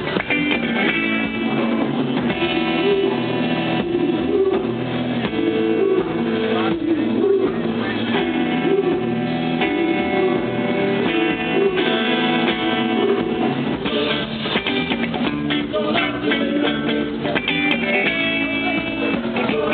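Live band music led by guitar, played steadily, with some singing.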